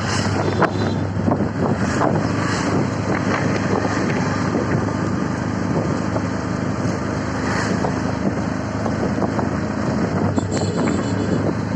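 CNG auto-rickshaw on the move: a steady engine hum under constant rattling and clicking, with wind buffeting the microphone.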